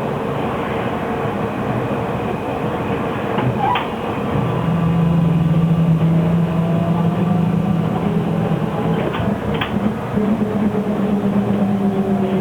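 Shanghai SK5105KGP trolleybus under way, heard from inside the cabin: steady running noise, with a low electric traction motor hum that sets in about four seconds in. A few sharp clicks and rattles are heard near the start and about two-thirds of the way through.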